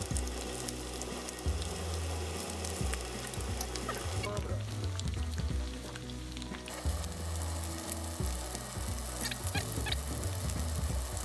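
Starch-coated chicken pieces frying in hot sesame oil: a steady sizzle with scattered sharp pops from the oil. The sizzle briefly softens about four seconds in, then returns.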